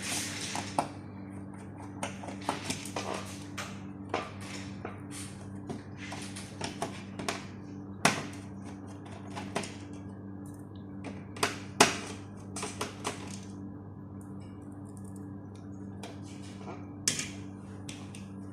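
Irregular sharp clicks and taps of small hard objects being handled, coming in bunches with pauses, over a steady low electrical hum.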